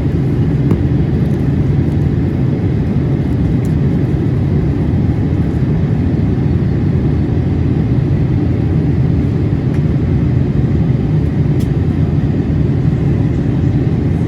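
Steady roar of a Boeing 787-8 cabin in cruise: engine and airflow noise, a low, even rumble with no change.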